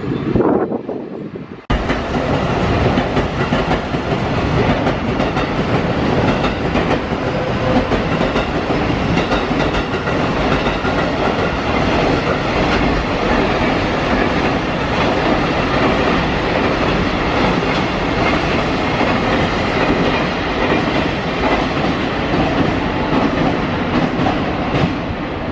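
Freight train passing close at speed, its wagon wheels clattering over the rail joints in a steady rush of noise. About two seconds in, the sound cuts off briefly and comes back at full level.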